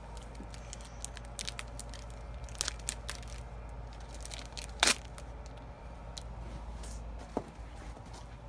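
Plastic packaging of a block of cheese being cut and torn open, a run of short crinkles and crackles with one louder crack about halfway through.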